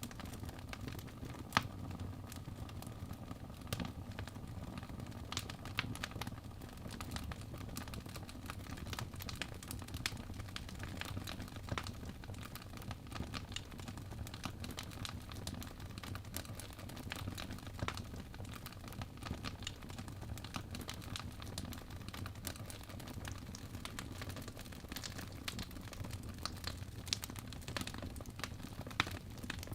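Fireplace fire crackling: irregular sharp pops and snaps over a steady low rumble of the flames, with one louder pop about a second and a half in.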